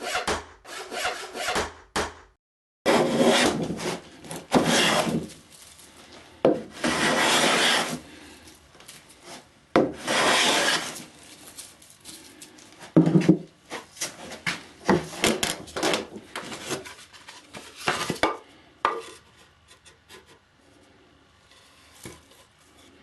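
Hand tools working old floorboard wood: a series of long scraping strokes, each about a second, with lighter knocks and taps in the second half.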